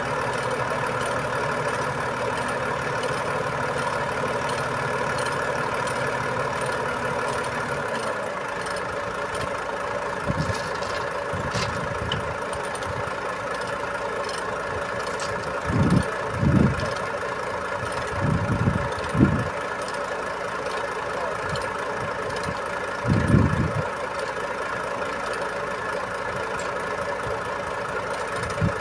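Diesel truck engine idling steadily, its low rumble easing about eight seconds in. Several short, low thumps come through in the middle stretch.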